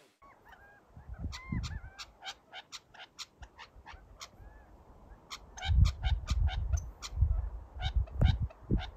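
A bird calling with short notes that rise and fall, mostly in the first few seconds, over many sharp clicks and crunches. Heavy low thumps fill the second half.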